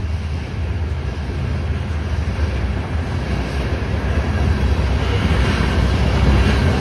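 Freight train's hopper cars rolling past close by: a steady rumble and clatter of steel wheels on the rails, growing louder toward the end, with some wind noise on the microphone.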